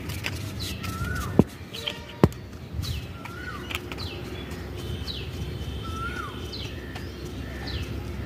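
A bird calls over and over, about once a second: a short rising-and-falling whistle with a quick falling note above it. Two sharp knocks sound about a second and a half in and again a second later, over a steady low background noise.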